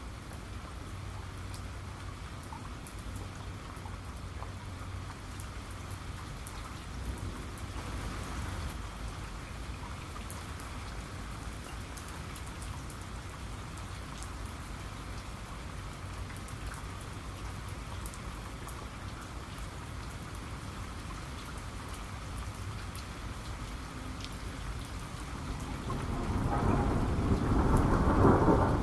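Steady rain falling, with scattered individual drops ticking. Near the end a thunder rumble builds and grows loud.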